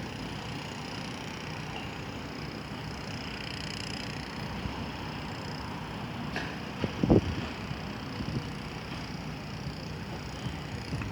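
Steady hum of an electric train running slowly through the station, with a low thump about seven seconds in.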